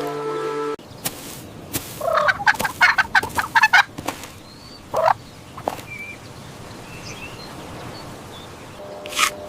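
Poultry calling: a quick run of rapid calls for about two seconds, then a single call about five seconds in, with faint high chirps after. A steady pitched sound cuts off under a second in.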